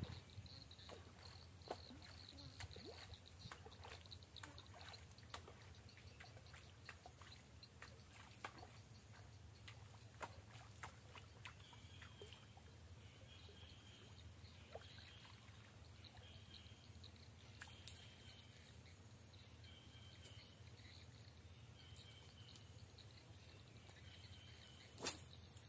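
Near silence: faint outdoor ambience with a steady high-pitched tone, scattered small clicks and faint short chirps repeating in the second half, and one sharper click near the end.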